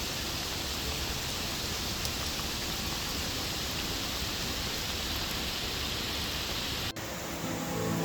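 Steady hiss of heavy rain falling. About seven seconds in it breaks off sharply and acoustic guitar music fades in.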